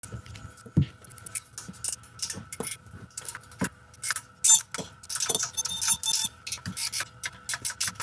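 Hand tools clicking and clinking against an exhaust manifold bolt in an engine bay, in irregular metallic taps with a quicker run of clicks about five to six seconds in.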